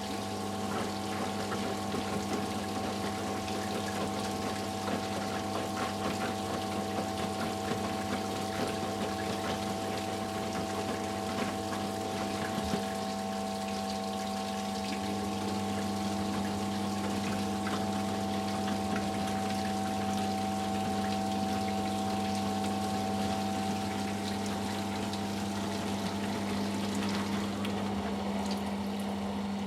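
Eudora Sparmeister 702 washing machine's drain pump humming steadily as it pumps out the cooled wash water, with water pouring and gurgling. The hum changes and drops away near the end as draining finishes.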